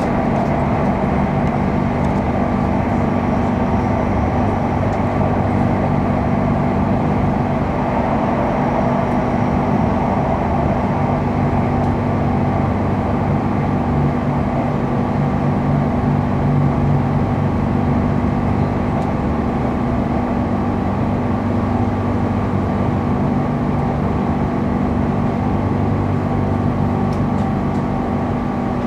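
Interior of an Airport Rail Link express electric train running along its track: a steady rumble of wheels on rail with a constant low hum from the train's equipment, heard from inside the carriage.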